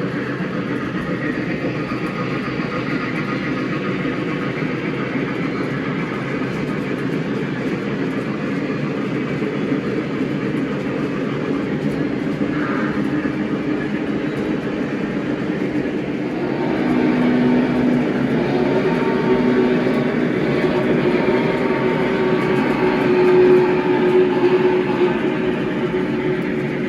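O-gauge model train running on the layout track: a steady rumble of wheels on rail that grows louder about two-thirds of the way through.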